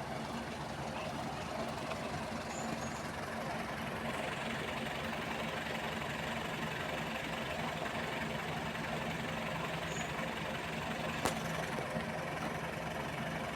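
Heavy diesel engine idling steadily with a low hum, from the construction machinery (dump truck and excavator). One sharp click comes about eleven seconds in.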